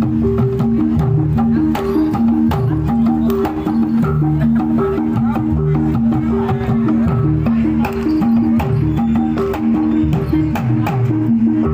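Javanese gamelan music playing for a dance: a repeating pattern of pitched metallophone notes over drum and percussion strokes.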